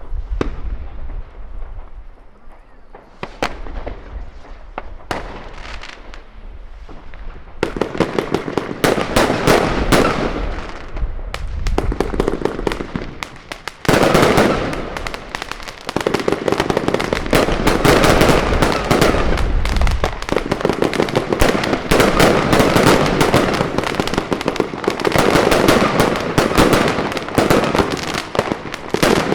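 New Year's fireworks going off: a few scattered bangs at first, then from about seven seconds in a dense, unbroken crackle of rapid reports that grows louder and thicker about halfway through.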